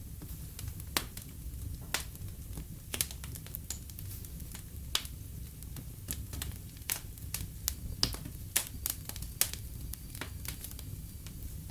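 Fire burning in a fireplace, crackling and popping irregularly over a steady low rumble of flames.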